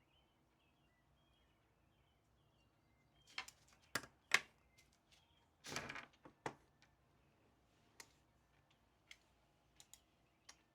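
Scattered light clicks and taps from desk work, such as typing or handling a pen, with a louder cluster about four seconds in and a brief rustle about six seconds in. Faint bird chirps sound in the background.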